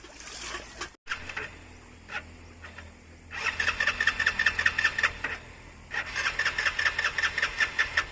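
Motorcycle engine being cranked twice, each try lasting about two seconds, with a fast, even chugging of about seven beats a second; it does not catch and run.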